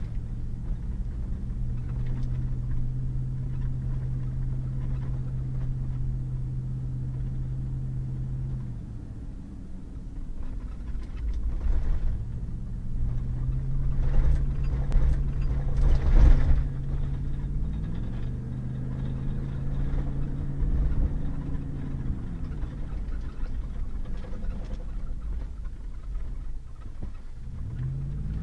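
Pickup truck driving on a muddy back road: a steady engine hum over low road rumble, easing off for a few seconds about a third of the way in, then picking up again with the engine pitch rising and falling a few times. A couple of short knocks come through around the middle.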